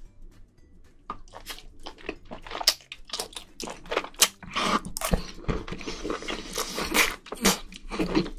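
Close-miked mouth sounds of a person eating spicy braised seafood (haemul-jjim): chewing, crunching and wet smacking. It starts about a second in as quick, irregular clicks.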